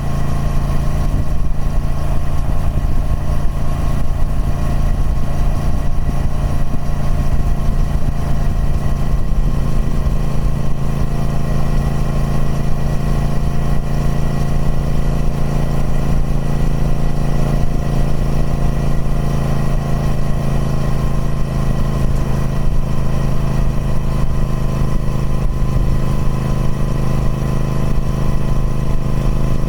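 Triumph Speed Twin 1200's parallel-twin engine running steadily at even revs through its stock exhaust.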